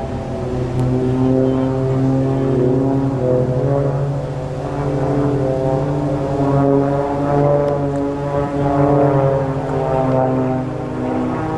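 Propeller engines of Christen Eagle aerobatic biplanes droning in flight, their pitch wavering up and down as the planes manoeuvre.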